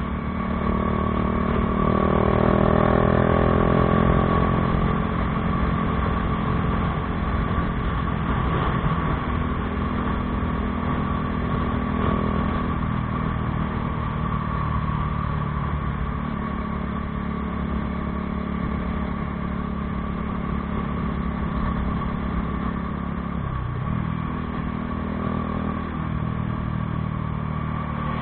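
Bajaj Dominar 400's single-cylinder engine running through an aftermarket Akrapovič exhaust. It gets louder with throttle for a few seconds near the start, then settles to a steady note, with a brief drop in pitch late on.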